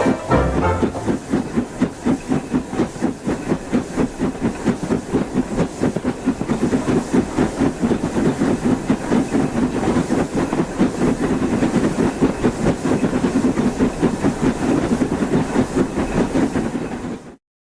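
Steam locomotive exhaust chuffing in a fast, even rhythm of about four beats a second over a steady hiss, cutting off abruptly near the end.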